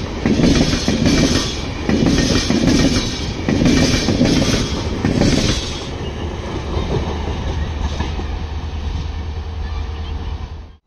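Passenger train running past close by, its wheels clattering over the rail joints in a regular beat a little faster than once a second. About halfway through this eases into a steadier rumble with a faint hum, then it cuts off suddenly at the end.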